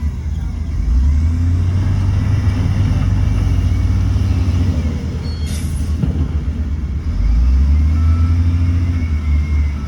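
Heavy diesel engine of earthmoving machinery running under load, a loud low rumble that swells twice, with a short hiss about halfway through.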